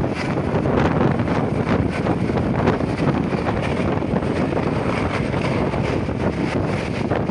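Helicopter running close by: steady rotor and engine noise mixed with wind buffeting the microphone.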